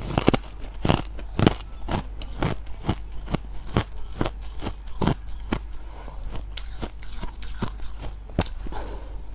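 Freezer frost crunched and chewed close to the microphone, a steady run of sharp crunches about two a second. A steady low hum lies underneath.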